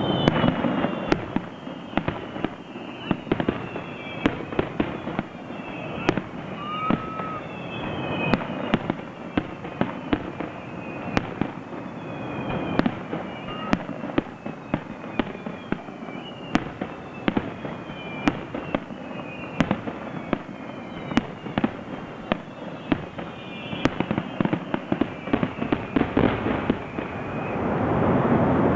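Aerial fireworks going off in a rapid barrage of sharp bangs and crackles, with many short whistles falling in pitch. A denser, louder stretch comes near the end.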